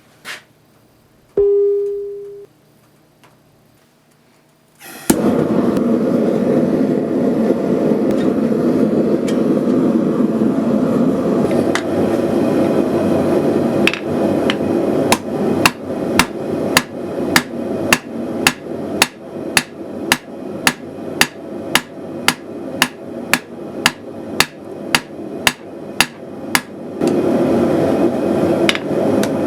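Hand hammer striking hot 3/8" steel bar on an anvil, a few scattered blows and then a steady rhythm of about two strikes a second. Under it runs the steady roar of the gas forge's burner, starting about five seconds in.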